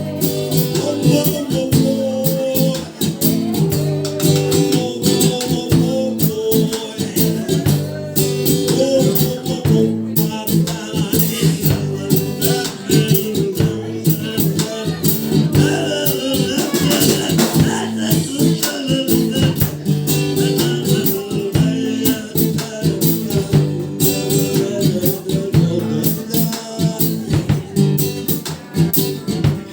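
Live acoustic rock song with a guitar strummed in a fast, steady rhythm.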